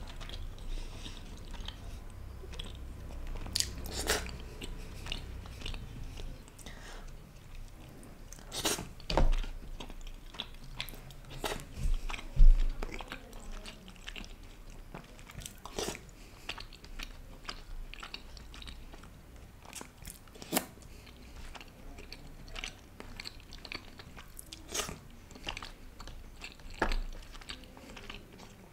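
Close-miked eating: chewing of soft, syrup-soaked angoori gulab jamun taken by hand, with many short sharp clicks scattered throughout. A loud low thump comes about twelve seconds in, and a smaller one a little before nine seconds.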